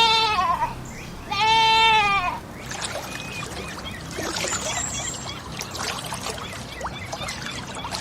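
Two loud bleating animal calls, each falling in pitch at the end, the second longer than the first. They are followed by a quieter stretch of faint rustling with scattered small chirps and clicks.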